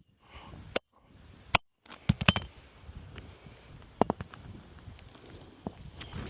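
Scattered sharp knocks and taps of hand-tool roofing work on a 3-tab asphalt shingle roof: a few single strikes, with a quick cluster of them about two seconds in.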